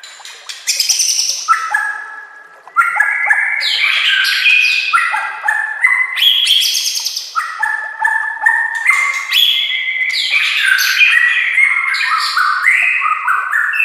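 White-rumped shama (murai batu) singing a fast, continuous run of varied whistled and chattering phrases, with a brief lull about two seconds in.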